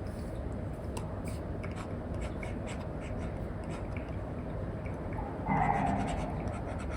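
Apple Pencil tip scratching and tapping on an iPad fitted with a paper-feel matte screen protector: many short pen strokes over a steady low background hum. About five and a half seconds in, a brief louder sound rises over it.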